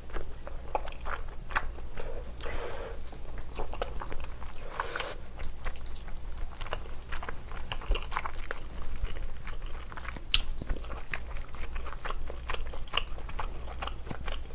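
Close-miked chewing of a mouthful of spaghetti and meatball in tomato sauce: wet mouth clicks and smacks throughout, with two short hissing sounds about two and a half and five seconds in.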